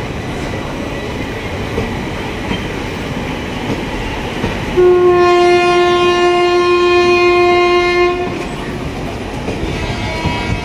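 Indian Railways passenger coaches rolling past with steady wheel-on-rail noise and clickety-clack. About five seconds in, a train horn sounds one long steady blast lasting about three and a half seconds, and a fainter horn note begins near the end.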